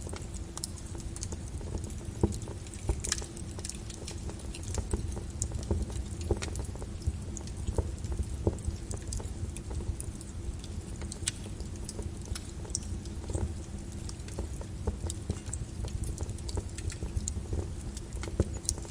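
Lava flow crackling and popping: irregular sharp clicks scattered over a steady low rumble.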